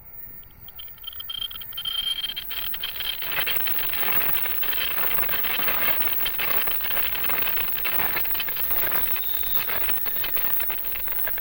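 A Shinkansen train passing at speed. Its noise builds over the first two seconds, then holds steady with dense, rapid clicking.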